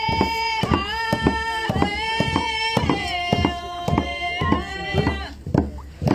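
A voice singing long held notes over a steady drum beat, about two beats a second.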